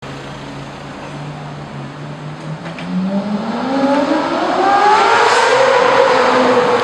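Lamborghini Murciélago SV's V12 engine running at a low, steady note, then accelerating hard about three seconds in, its pitch climbing and getting louder before levelling off near the end.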